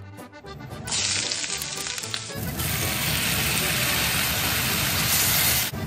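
Sliced onions and roasted red pepper strips sizzling in a stainless steel frying pan. The sizzle starts about a second in, grows louder about a second later, and cuts off just before the end.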